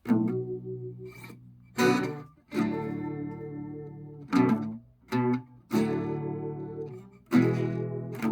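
Guitar music: chords strummed one at a time, about seven in all at an unhurried, uneven pace, each left to ring and fade before the next.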